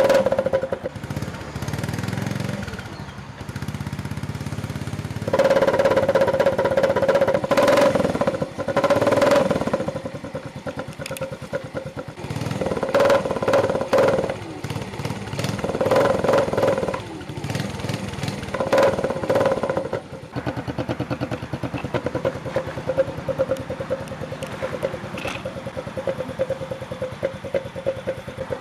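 Small motorcycle engine with a coffee cup fitted to its exhaust, revved in a series of short bursts and then left idling steadily. A steady droning note comes through from the cup.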